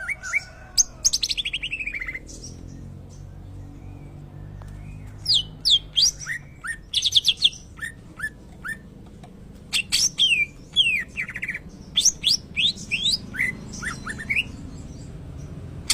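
Cucak ijo (green leafbird) singing in bursts of rapid trills, sharp down-slurred whistles and quick notes, a song that sounds like a murai (white-rumped shama). A fast trill comes about a second in, then a pause of about three seconds, then two longer runs of phrases.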